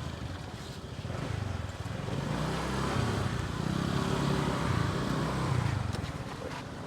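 Motorbike engine running while riding, with wind and road noise; it grows louder about two seconds in and eases off near the end.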